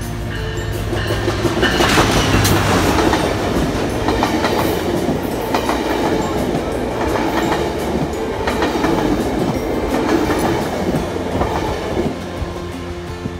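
Metrolink commuter train passing close, led by an F125 diesel locomotive: a loud rumbling roar that builds to its loudest about two seconds in as the locomotive goes by, then bilevel coaches rolling past with the clickety-clack of wheels on the rails.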